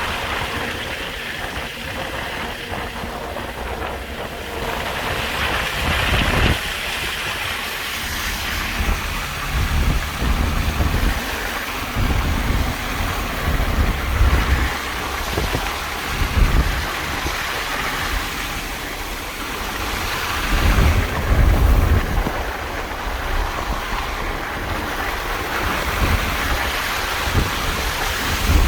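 Freight train rolling past: a steady noisy rumble of wagons on the rails, with uneven low rumbling swells and no horn.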